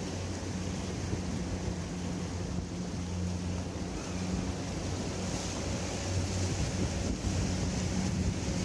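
A boat's engine running steadily under way, a low even hum, with wind buffeting the microphone and water washing past the hull.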